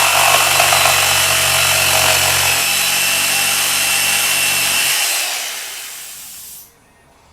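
Electric power saw cutting through wood, a small corner off a wooden push stick. It runs loud and steady, then eases off about five seconds in and dies away over the next second or so.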